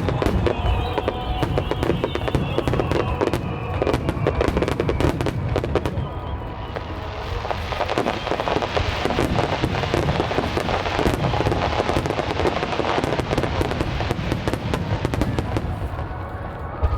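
Aerial fireworks bursting in quick succession: many sharp bangs, then from about six seconds in a dense, continuous crackling of crackle-effect shells.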